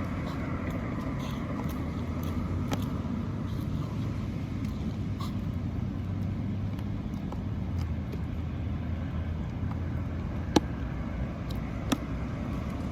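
Steady rumble of outdoor background noise like road traffic, with two sharp clicks late on, a little over a second apart.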